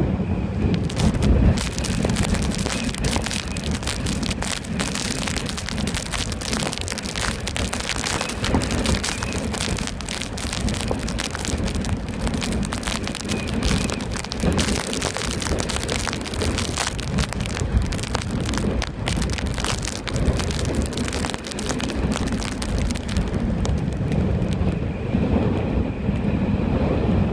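Storm noise at the sea: a dense crackle of water spray hitting the camera over a low rumble of wind on the microphone. The crackle thins out near the end.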